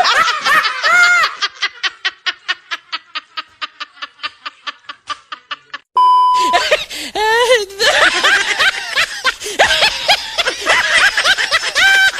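Rapid rhythmic laughter, about five 'ha' pulses a second, fading away over roughly six seconds, as in a meme laugh sound. After an abrupt cut and a short beep, high pitched calls rise and fall until the end.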